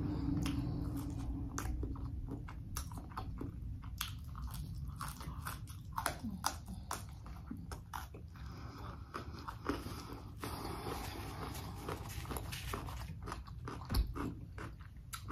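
Close-up mouth sounds of eating spicy chicken dipped in sauce: biting and chewing with many small wet clicks. A single soft knock comes near the end.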